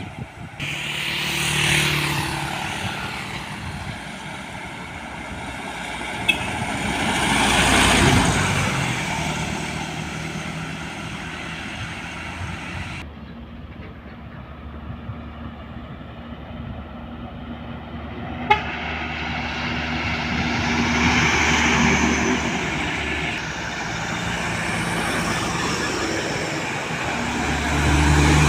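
Road traffic: heavy trucks and other vehicles passing one after another, their engine and tyre noise swelling and fading, the biggest passes about two seconds and eight seconds in and another long one later.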